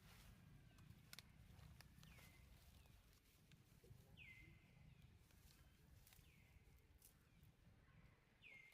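Faint, high animal call that sweeps down in pitch and levels off, repeated about every two seconds, with a few sharp clicks in between.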